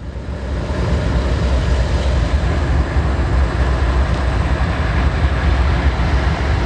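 Norfolk Southern diesel locomotives rumbling past slowly at close range, building up over the first second and then running steadily.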